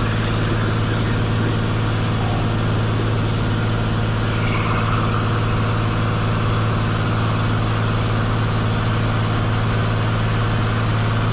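Cessna 182 Skylane's piston engine and propeller droning steadily in flight, an even, unchanging note.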